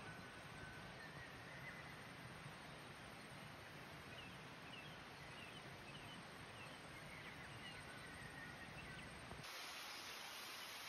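Faint outdoor ambience: a steady low background noise with a few faint, short bird chirps scattered through. Near the end the low rumble drops away abruptly.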